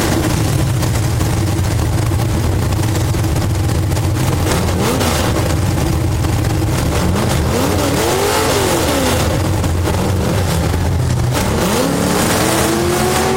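Race car engine heard from inside the car, running loudly under a dense low drone, its pitch rising and falling as the revs change. About eight seconds in the revs swing up and back down, and near the end the pitch climbs and then holds steady.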